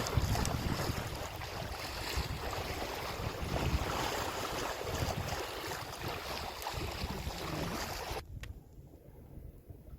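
Wind buffeting the microphone over water rushing along a sailboat's hull under sail. About eight seconds in, the sound cuts off abruptly to a much quieter background with a few faint clicks.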